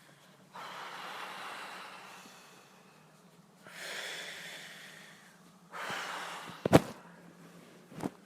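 Deep, forceful breaths in and out, three in a row, as in Wim Hof method breathing rounds. Near the end come two sharp clicks, the first the loudest thing heard.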